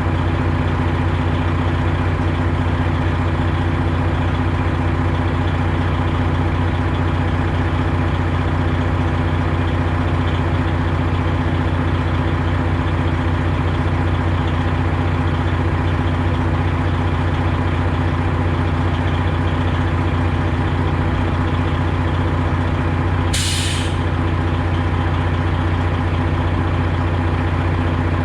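Semi truck's Detroit Diesel Series 60 engine running steadily at an even pitch, with no revving. About 23 seconds in, a short hiss of released air.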